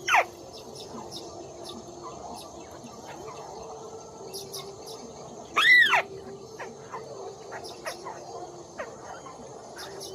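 White-browed crake calling: one loud call that rises and falls in pitch about six seconds in, among softer short chirps, over a steady high insect drone.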